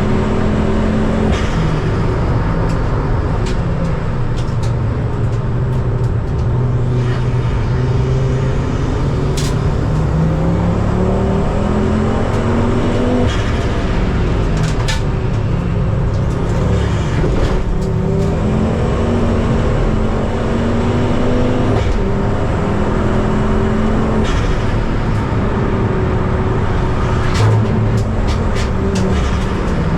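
Ford Focus ST race car's engine at racing speed, heard from inside the car, its revs climbing and dropping repeatedly through gear changes, with a few short clicks.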